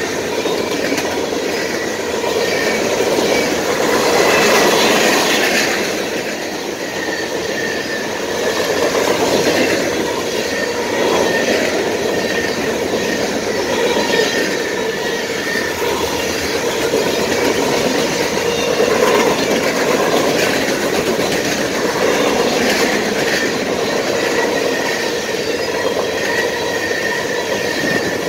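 Freight cars of a passing train rolling by: steady noise of steel wheels on rail, with clicks at the rail joints and a thin, high, steady wheel squeal running under it.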